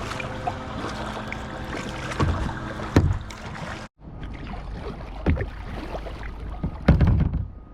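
Kayak moving through water: steady water and hull noise with scattered knocks, and a loud thump about seven seconds in. The sound cuts out abruptly about halfway through, then resumes.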